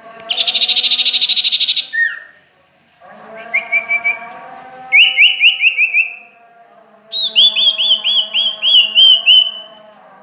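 A songbird calling: a loud buzzy rattle lasting about a second and a half, then two runs of quick, repeated down-slurred chirps. A steady low hum runs underneath.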